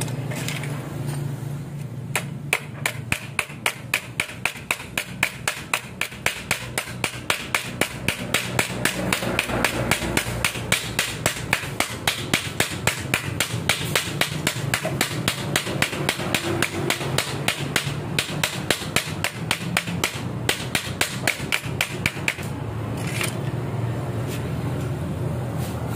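Rapid, evenly paced hammer blows on metal, about three a second for some twenty seconds, driving a new brass bushing into a Vespa clutch part. The old bushing was worn loose, the cause of a noisy, slipping clutch.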